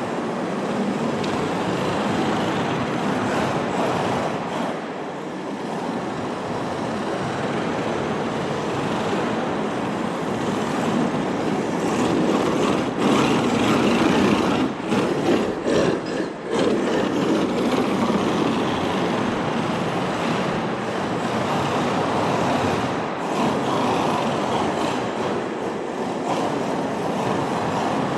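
HSP 94123 1/10 RC drift car, fitted with a 3650 3900KV brushless motor, driving and drifting: a steady rolling, scrubbing noise from the hard drift tyres and drivetrain, louder and more uneven for a few seconds around the middle.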